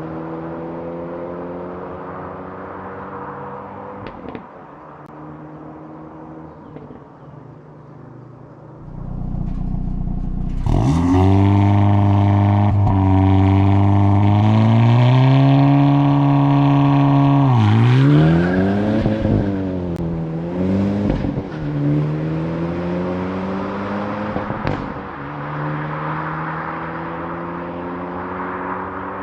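Hyundai i30 Sedan N's 2.0-litre turbo four-cylinder engine under way. It starts with revs slowly falling and then a quieter spell. About ten seconds in it pulls hard, pitch rising steadily for about seven seconds as the loudest part. Then the revs drop suddenly, swing up and down several times, and settle to a steadier drone near the end.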